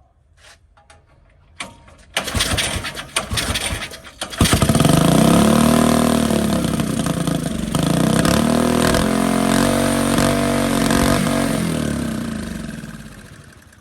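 Small 5 hp single-cylinder engine with a turbo and a Mikuni carburettor starting up. It fires roughly about two seconds in, then runs loud as the throttle is blipped up and down several times, and fades out and stops near the end. The turbo is spinning up on the exhaust flow.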